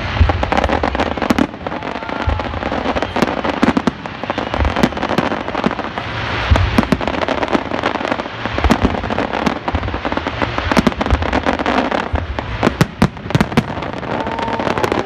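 Fireworks display going off: a dense run of sharp bangs from aerial shells, many close together, over a continuous rushing noise from ground fountains spraying sparks.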